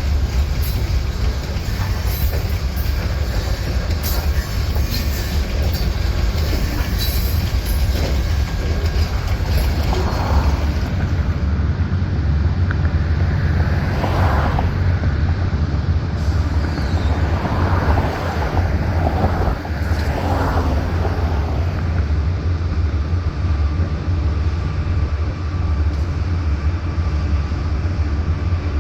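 Freight train rolling by: a steady low rumble, with sharp wheel clicks on the rails in the first several seconds.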